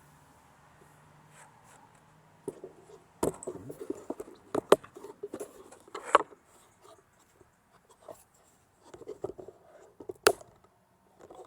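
Scattered knocks, clanks and scrapes of hands-on work at an engine removal, with sharp clanks about three, five, six and ten seconds in. A faint steady hum sits under the first three seconds.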